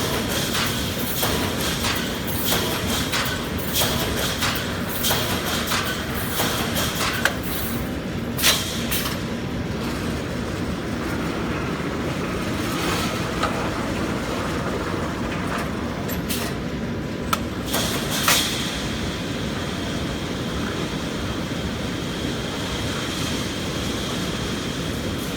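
Automatic wire mesh panel welding machine running: a steady mechanical clatter with a faint high whine and sharp metallic clacks now and then, as the finished mesh panel is drawn out by the traction unit.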